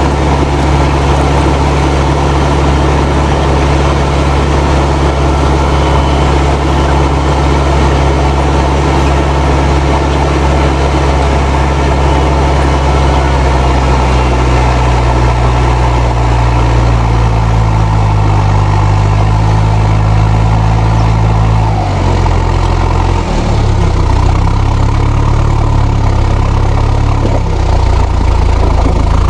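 Fendt 307 Ci tractor's turbocharged diesel engine running hard while pulling a three-furrow plough, with the turbo whistling. The engine note shifts in pitch about two-thirds of the way through and dips briefly, then steadies.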